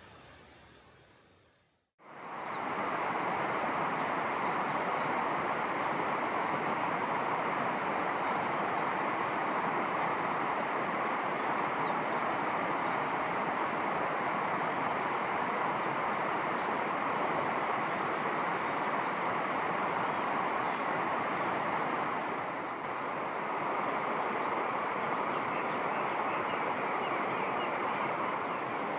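Steady rushing of flowing water that starts abruptly about two seconds in, with brief high chirps of a small bird scattered through the first two-thirds.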